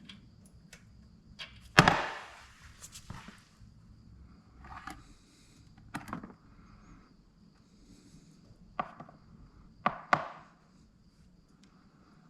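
A series of sharp knocks and clatters, like tools and parts being picked up and set down during mini-bike oil-change work. The loudest is about two seconds in and rings briefly; a quick pair comes near the end.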